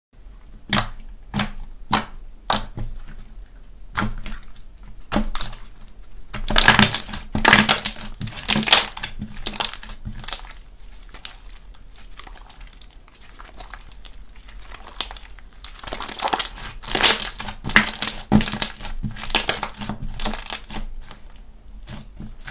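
Slime being pressed and squeezed by hand: a few sharp clicks and pops at first, then two longer stretches of dense crackling, one about a quarter of the way in and one past the middle.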